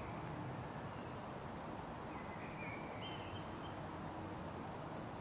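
Quiet woodland ambience with a few faint, short distant bird calls in the middle.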